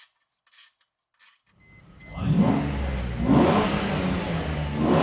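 Mercedes SL600 V12 engine running through a newly fitted test exhaust, coming in about a second and a half in and blipped up and back down twice.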